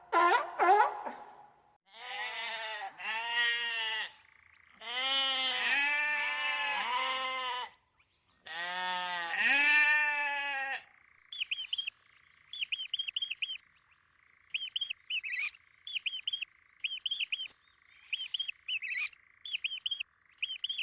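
Animal calls: several drawn-out pitched calls that rise and fall in pitch, then, from about halfway, short high chirps repeated in quick groups of three or four over a faint steady hum.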